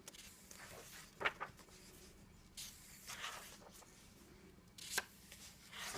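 Faint handling of the coloring book's paper pages: a soft rustle in the middle and two light taps, one about a second in and one near the end.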